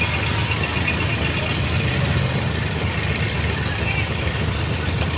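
Truck engine running steadily, an even rumble with no revving, and voices in the background.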